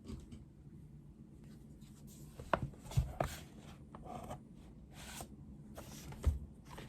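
Handwriting on paper at a desk: faint, scattered scratchy strokes with a few light knocks, over a low steady room hum.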